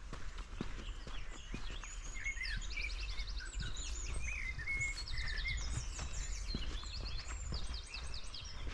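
Small forest songbirds calling: many short chirps and quick rapid trills overlapping, over a steady low rumble, with soft footsteps on the forest floor.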